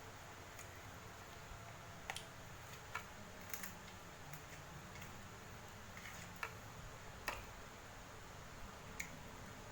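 Scattered short clicks and ticks at uneven intervals, a few in quick pairs, over a steady low hiss.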